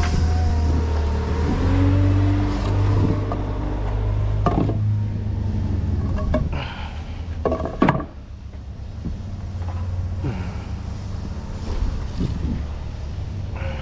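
Forklift engine running under load with a whine of the hydraulics, and several sharp clunks of a pallet being handled. The engine drops back to a quieter run after about eight seconds.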